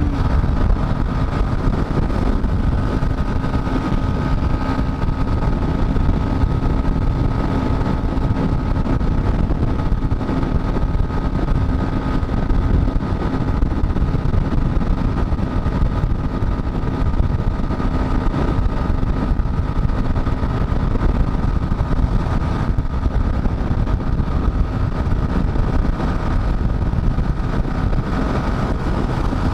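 Dafra Next 250 motorcycle engine running at a steady cruising speed, its note holding nearly constant, under a heavy rush of wind and road noise.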